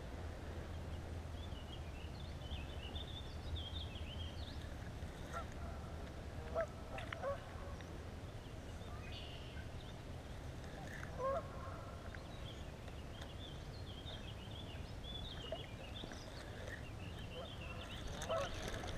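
Birds calling around a pond: scattered short high chirps throughout, with a few short, louder, lower calls, over a steady low rumble. A brief rustle comes near the end.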